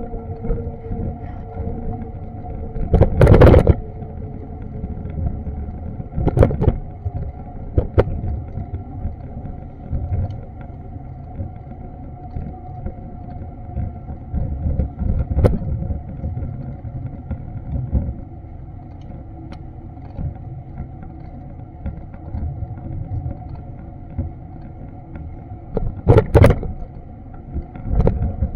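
Street sound picked up by an action camera's built-in microphone while walking: a steady low rumble of traffic and wind on the microphone, under a faint steady hum. Several sharp knocks or bumps cut through it, the loudest about three seconds in and again near the end.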